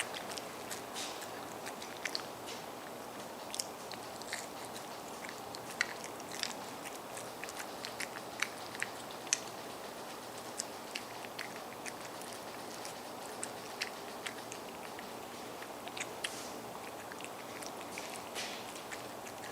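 A cat eating its breakfast: irregular chewing clicks and smacks over a steady background noise.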